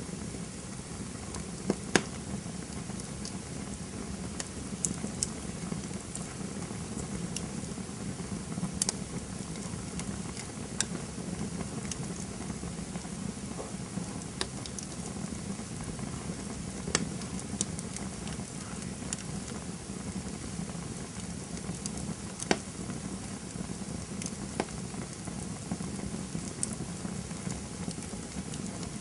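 Campfire burning with a steady low rush of flames and irregular sharp crackles and pops of burning wood, a couple of louder pops standing out.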